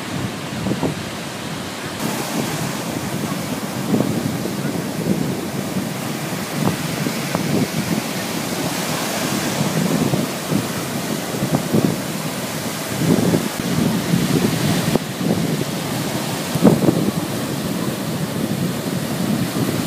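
Wind gusting across the microphone, with irregular low thumps over a steady rushing noise.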